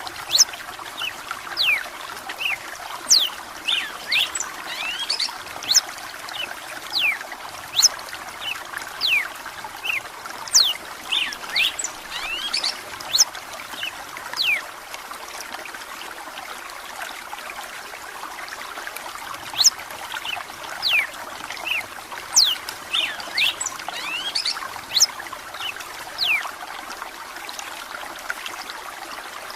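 Red-cowled cardinal singing in clusters of quick, sharp whistled notes, with a pause of a few seconds near the middle. Under it runs a steady trickle of running water.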